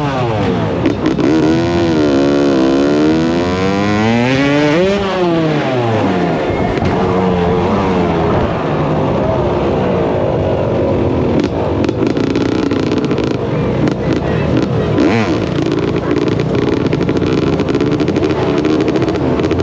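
Dirt bike engine revving up and down several times in quick swings, then running on more steadily with smaller rises and falls in pitch.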